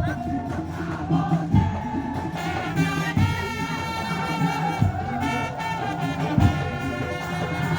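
Madurese tong-tong parade ensemble playing live: a deep drum stroke falls about every second and a half under busy percussion, and a high, sustained melody line comes in about two and a half seconds in.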